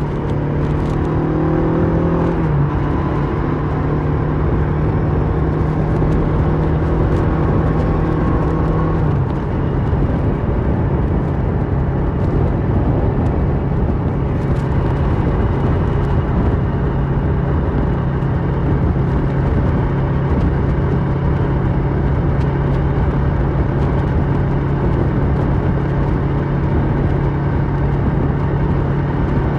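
Kawasaki Versys 650's parallel-twin engine through a Mivv slip-on exhaust, running under load while riding, over a steady rush of wind. The engine note drops slightly twice in the first ten seconds, then holds at a steady pitch.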